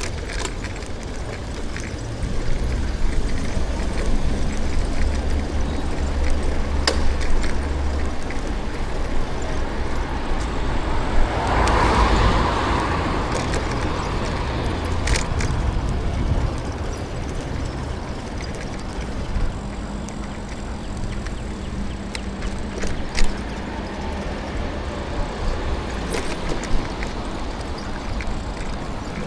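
City street traffic heard from a moving bicycle: a steady low rumble, with a vehicle passing about halfway through, swelling and fading, and a few sharp clicks.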